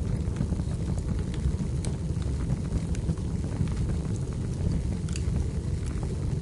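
Wood fire burning in a fireplace: a steady low rumble of the flames with frequent small crackles and pops scattered throughout, a couple of sharper pops standing out.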